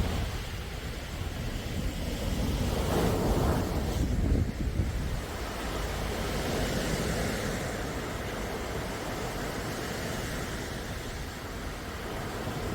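Sea waves washing in, in slow swells, one about three seconds in and another a few seconds later, over a steady low rumble.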